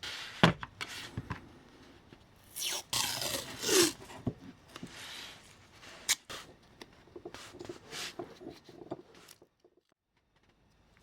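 Small parts and tools being handled during model-train restoration work: a string of sharp clicks and knocks, and a longer scraping rustle about three seconds in. The sounds stop shortly before the end.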